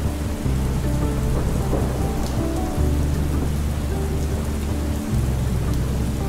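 Steady rain hiss layered over soft background music of long, held low notes that change every second or two.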